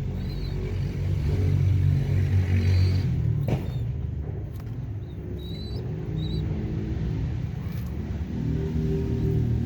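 Domestic pigeons cooing: low, rumbling coos in phrases of a few seconds, with faint high chirps from small birds and a single click about three and a half seconds in.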